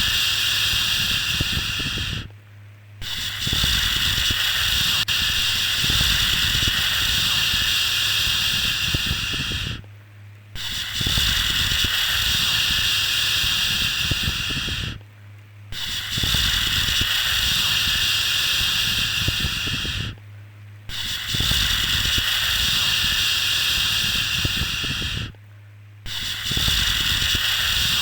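A long "shhh" shushing sound for lulling a baby, held for about five to seven seconds at a time and broken by short pauses, four of them in the middle. A steady low hum runs underneath.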